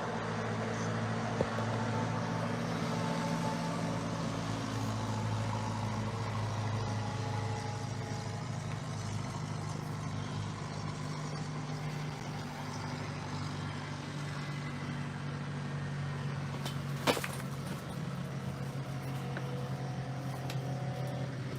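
A steady engine hum over a background rush, its pitch shifting a little now and then, with one sharp click about 17 seconds in.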